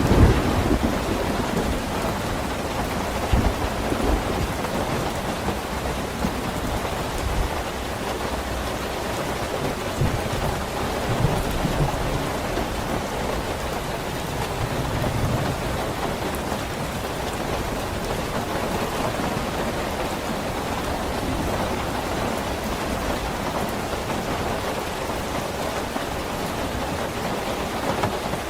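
Steady rainfall, with a few low rumbling swells in the first half.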